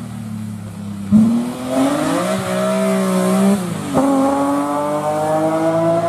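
Rally car engine accelerating hard under load. The note climbs, drops at a gear change about four seconds in, then climbs steadily again through the next gear.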